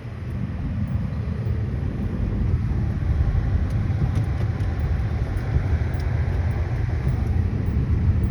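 Vehicle engine running under load, heard from inside the cab, as it pulls through deep snow. The rumble builds over the first couple of seconds, then holds steady.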